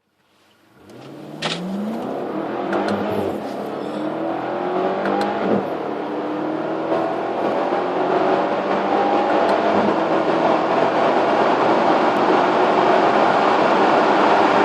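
BMW X6 M's twin-turbo V8 under full-throttle acceleration from a standstill, its pitch climbing through each gear and dropping back at several upshifts, getting louder as speed builds.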